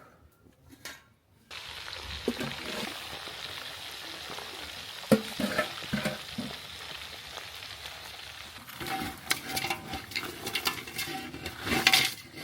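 Food sizzling in a frying pan, a steady hiss that starts about a second and a half in, with the clinks and scrapes of a utensil stirring it.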